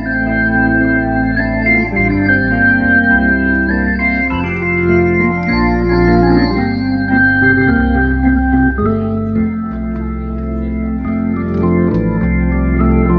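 Organ music playing sustained chords that change every second or two.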